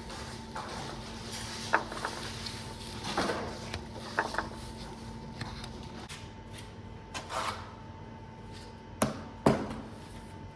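Scattered light knocks and scrapes of hand work grouting stone-veneer joints, with two sharp knocks about nine seconds in, over a steady hum.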